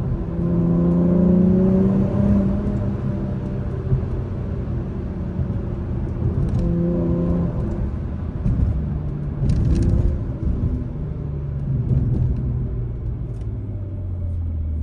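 2021 Acura TLX Type S's turbocharged V6 heard from inside the cabin while driving, over road rumble. Its pitch rises and falls a few times with the revs.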